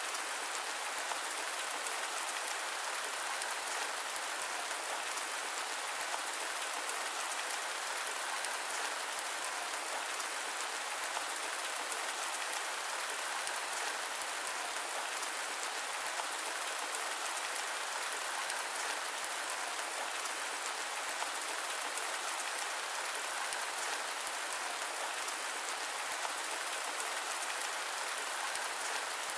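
Steady rain, an even hiss that neither rises nor falls, with no thunder or other separate sounds.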